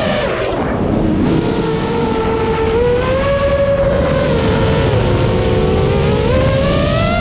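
Brushless motors and propellers of a 7-inch FPV quadcopter (EMAX ECO II 2806 1500kv) whining as the throttle changes. The pitch falls about half a second in, wavers, then climbs again near the end.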